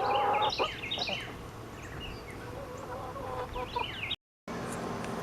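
Chickens clucking: a loud burst of hen calls in the first second, then fainter, scattered clucks. The sound drops out briefly near the end.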